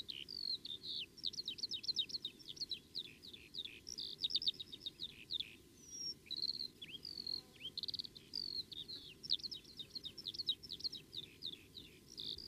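Birdsong: a continuous run of short, high chirps and quick trills in varied phrases.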